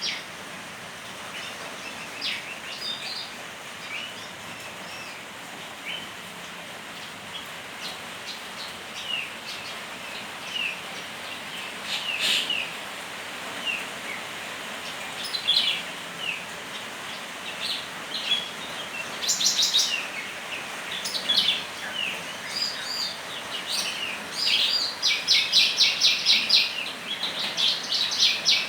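Small songbirds chirping in short, scattered calls, building to a fast chattering trill over the last few seconds, with a steady hiss of rain underneath.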